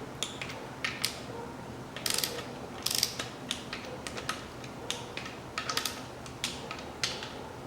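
Torque wrench ratchet clicking in short bursts, several times, as camshaft bearing cap bolts are tightened in stages to their first-stage torque.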